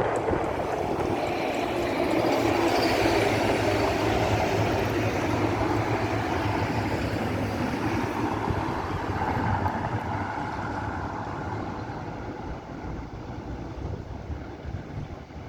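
Scania K450 coach's diesel engine running as the bus moves past, loudest a few seconds in and then slowly growing fainter as it draws away.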